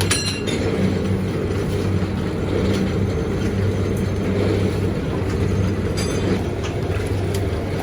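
A steady engine or motor drone with a low hum, with a few short metallic clicks and clinks over it, one near the start and another about six seconds in.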